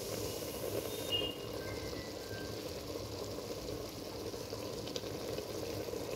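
Mutton-and-turnip curry sizzling and bubbling in a steel pot as fresh spinach is stirred into it: a steady, even cooking noise.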